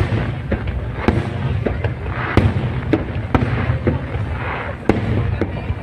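Aerial fireworks bursting: a string of sharp bangs, about one a second or faster, with crackling between them over a steady low rumble.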